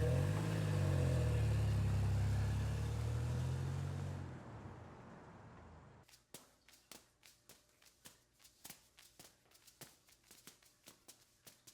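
A loud, low rumble with a wavering pitch that starts abruptly, holds for about four seconds and then fades away, followed by a run of light, sharp taps, a few a second, that get quicker toward the end.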